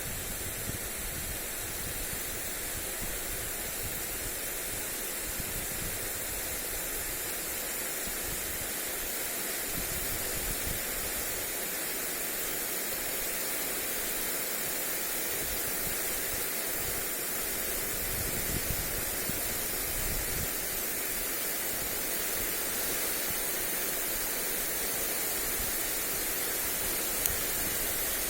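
Lawn sprinkler spraying water onto grass: a steady hiss throughout. Irregular low rumbles of wind come and go on the microphone.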